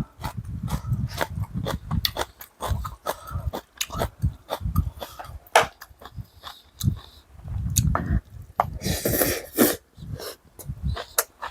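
A person eating close to the microphone: chewing and mouth sounds with repeated clicks of a spoon against a bowl, and a short breathy burst, like a sniff or slurp, about nine seconds in.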